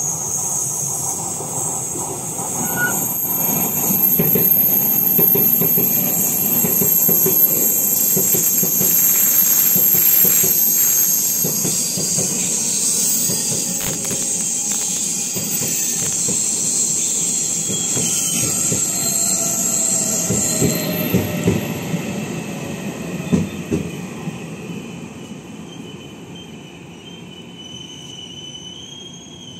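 Taiwan Railways train passing through a station: wheels rumbling on the track under a high, steady squeal that cuts off about two-thirds of the way through, after which the rumble fades away.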